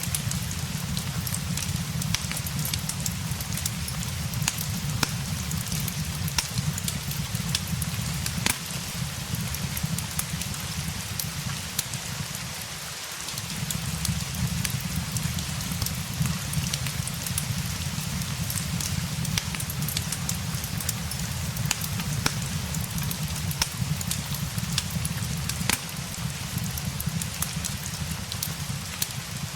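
Steady rain with a fireplace crackling: a continuous hiss of falling rain with sharp, irregular crackles and pops from the burning wood, over a low rumble that briefly drops out about halfway through.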